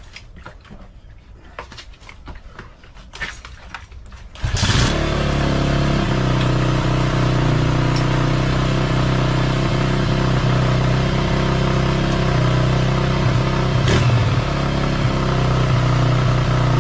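Motorcycle being kick-started: a few knocks of the kick lever, then about four and a half seconds in the engine catches and settles into a steady idle.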